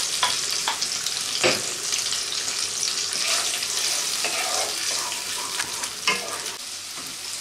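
Ginger, garlic and green chilli paste sizzling in hot oil with chopped tomatoes in a non-stick kadai, stirred with a wooden spatula. There are a few sharp knocks, the loudest about a second and a half in.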